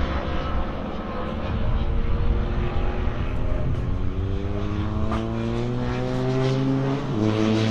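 A racing motorcycle's engine on the circuit, heard from trackside, accelerating hard with its pitch climbing steadily. Near the end the pitch drops sharply at an upshift and then starts climbing again.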